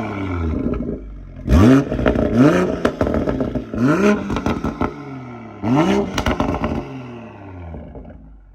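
BMW M340i's B58 turbocharged straight-six, breathing through a CTS downpipe and AWE Touring exhaust, revved in about five quick throttle blips. Each blip rises and falls back, with crackles and pops on the overrun from the tune's burble setting. The sound dies away over the last second or two.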